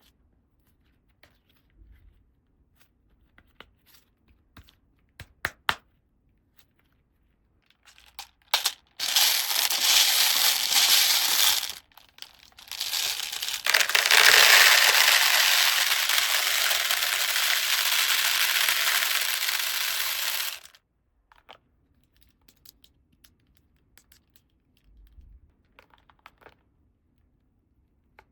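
Light clicks of small plastic toy pieces being handled, then plastic packaging crinkling loudly in two long stretches, a short one about nine seconds in and a longer one of about eight seconds.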